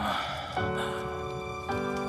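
Soft, sad background score: held notes come in about half a second in, and a new chord enters near the end, after a brief noisy sound at the very start.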